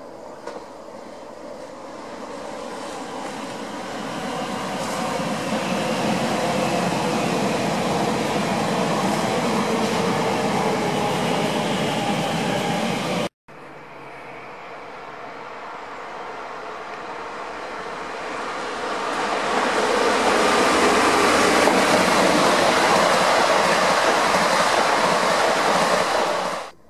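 Two electric passenger trains pass one after the other. First a Francilien (Z 50000) multiple unit approaches, its running noise building and then holding steady until it cuts off abruptly about halfway. Then a second train comes up and passes close, its rolling noise rising to its loudest near the end before stopping suddenly.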